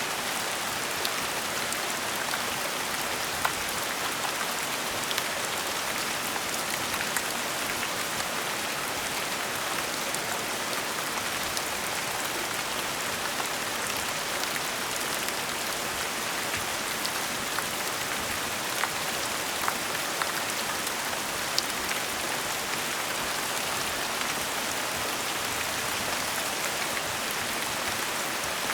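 Steady gentle rain, an even hiss with scattered sharper drops pattering on a surface.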